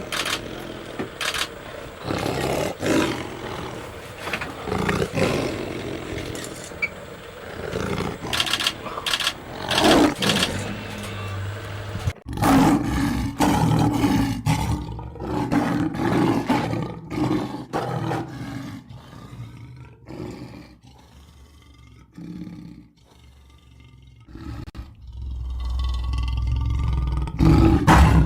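Lion roaring, in a run of separate clips with an abrupt cut about twelve seconds in.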